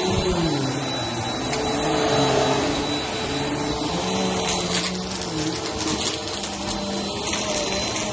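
Vacuum cleaner running over carpet, its motor droning steadily; from about halfway through, a crackle of dry cereal bits being sucked up.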